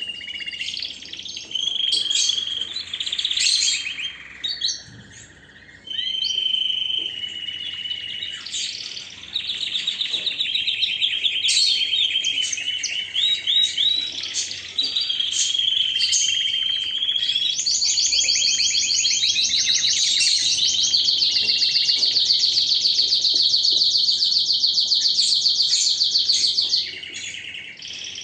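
Domestic canary singing a long song of trilled phrases, each a fast run of repeated high notes that changes every second or two. In the second half one fast, even trill holds for about nine seconds, then breaks off shortly before the end.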